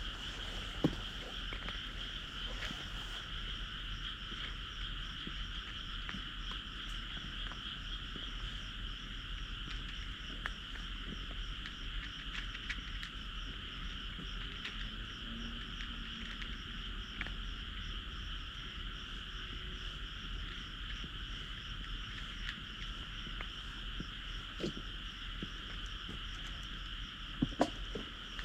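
Steady chorus of many frogs calling, an even shimmering drone without pause, with a few faint taps near the end.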